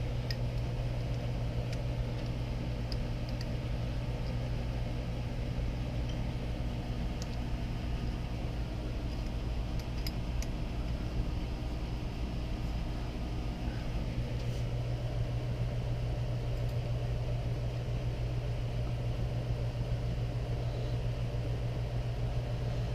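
Steady low mechanical hum of workshop background noise, with a few faint light clicks scattered through it.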